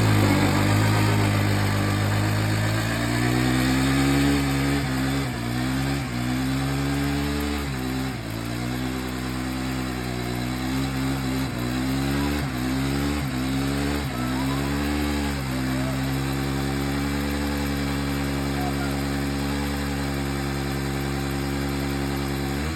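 Suzuki DR-Z250's single-cylinder four-stroke engine held at high revs for a burnout. The revs dip and recover again and again through the middle, then hold steady for the last several seconds.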